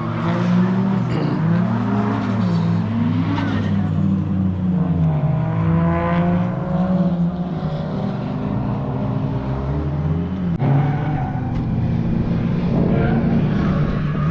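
Several car engines revving on and off the throttle, overlapping, their pitch swinging up and down every second or two, typical of drift cars working through their slides.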